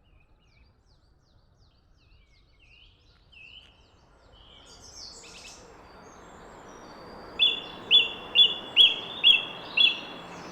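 Faint scattered chirps of woodland birds over a rising background hiss. About seven seconds in, a song thrush starts singing loudly close by, repeating one sharp, high note about two and a half times a second, which is the thrush's habit of repeating each phrase over and over.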